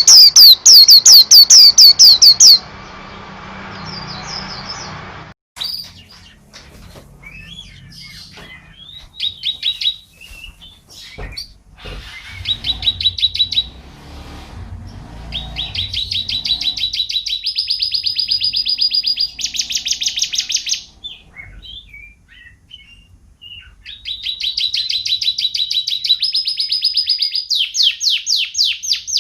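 Domestic canary singing in rapid rolling trills of quickly repeated notes, each phrase shifting to a new pitch partway through, with short pauses and scattered chips between phrases. The first trill is the loudest.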